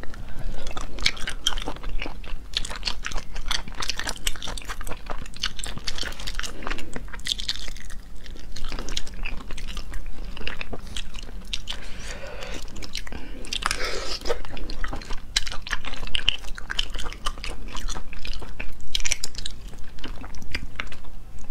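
Close-up mouth sounds of a person chewing sea snail meat, with many sharp smacks and clicks.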